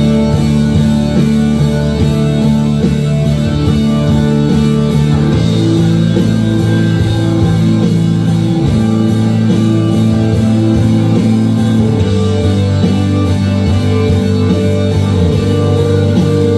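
Rock band playing an instrumental passage: electric guitar chords over drums, the chord changing about five seconds in and again about twelve seconds in.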